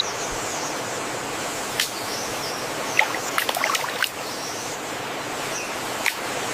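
Steady rush of running water, with a few sharp clicks and knocks over it: one about two seconds in, a quick cluster around the middle, and one more near the end.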